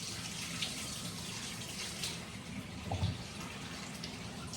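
Kitchen tap running water steadily into a sink, with a soft knock about three seconds in.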